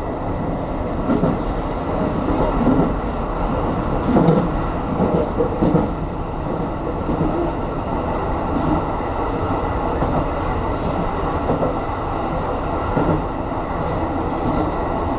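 Aonami Line electric train running between stations, heard from inside the front car: a steady rumble of wheels on rail, with a run of uneven clunks from the track in the first half.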